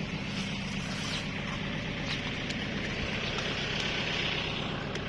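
Kubota L5018 SP tractor's diesel engine running steadily.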